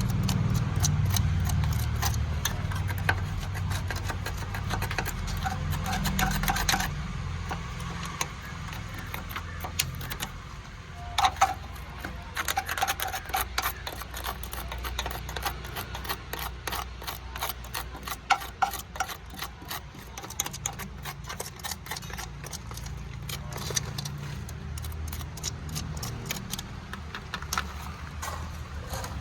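Rapid, irregular sharp metallic clicking and clinking, as of tools and parts being handled, loudest about eleven seconds in. Over the first seven seconds there is a low rumble, which fades and comes back faintly near the end.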